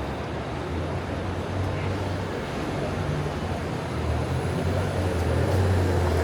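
Steady low rumble of city traffic, growing gradually louder as a vehicle approaches.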